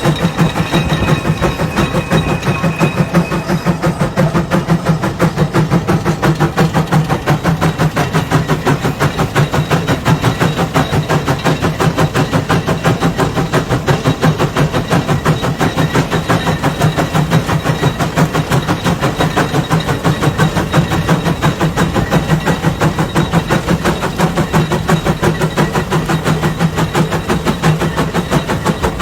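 Case 150 steam traction engine working under load pulling a 36-bottom plow, its exhaust chuffing in a rapid, steady beat.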